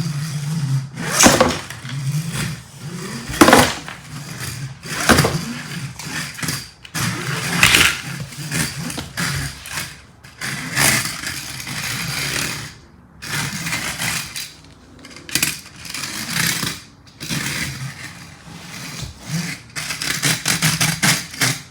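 Plastic LEGO toy car pushed along a hard surface, its wheels and loose bricks scraping and clattering in irregular bursts.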